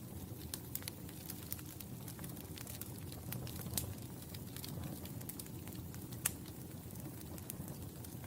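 Wood fire in a fireplace crackling steadily over a low, even rumble of flames. Frequent small sharp crackles, with two louder pops about 4 and 6 seconds in.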